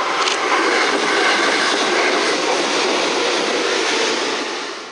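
Electric commuter train passing close by: the wheels run over the rails with a steady clatter and rumble that swells at the start, holds, and fades near the end as the cars go by.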